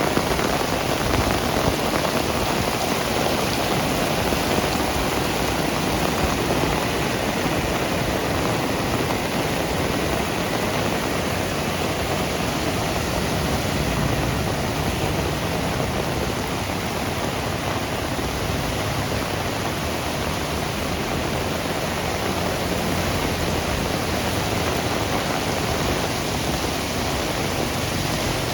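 Heavy rain falling steadily, a dense even hiss with running water.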